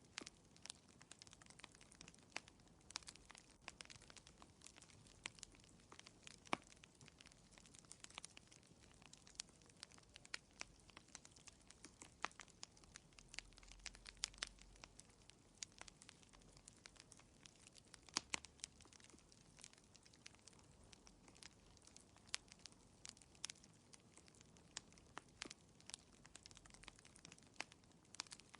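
Wood fire crackling in a fireplace: quiet, irregular sharp pops and snaps, several a second, over a soft hiss, with a few louder pops.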